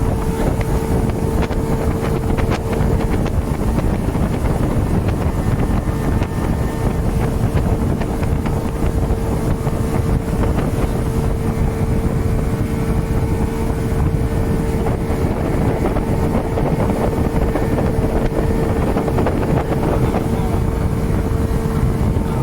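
Speedboat engine running steadily at cruising speed, a constant hum over heavy low rumble, with wind buffeting the microphone.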